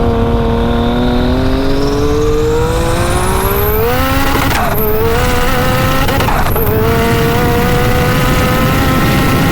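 Turbocharged Yamaha YXZ three-cylinder engine pulling hard under boost, its pitch climbing with a high whistle rising alongside. It breaks twice for quick gear shifts, about four and a half and six and a half seconds in, then holds a nearly steady pitch.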